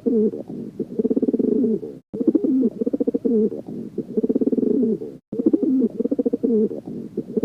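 Dove cooing: low, rolling coo phrases repeated again and again, with brief breaks about two and five seconds in.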